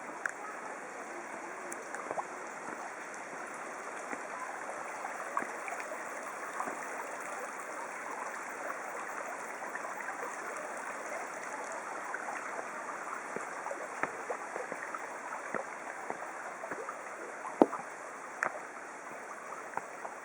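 Stream water flowing steadily, with small splashes and ticks throughout. A single sharp splash or knock stands out about seventeen seconds in.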